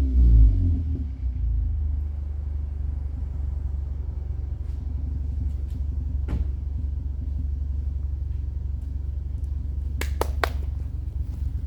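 Car engine through an aftermarket 63 mm exhaust with a downpipe, resonator and sport muffler, dropping back from a rev in the first second and then idling with a steady low rumble. A few sharp clicks about ten seconds in.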